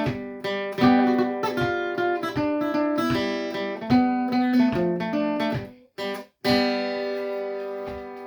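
Acoustic guitar playing a reinlender, a Norwegian folk dance tune, in a lively run of plucked notes and strummed chords. It breaks off just before the end, then closes on a final chord that rings out and fades.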